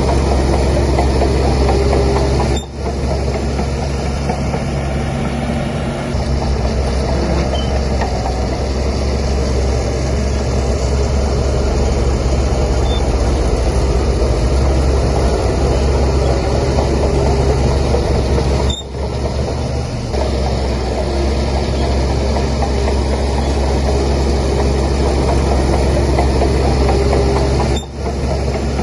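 Heavy diesel engine of a Shantui DH17C3 crawler bulldozer running with a steady low drone, the sound dipping briefly three times.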